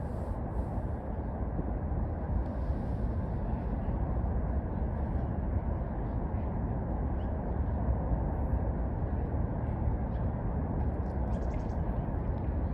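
Steady low rumbling background noise, with no howling or barking heard.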